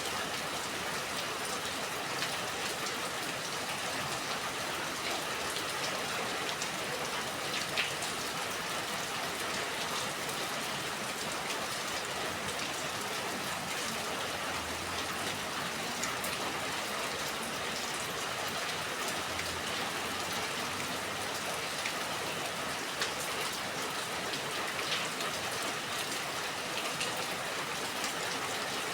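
Steady rain falling, an even hiss with scattered drops ticking on a surface now and then.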